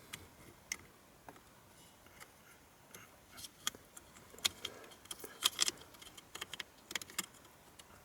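Irregular light clicks and taps, scattered through and clustered about five and a half seconds in.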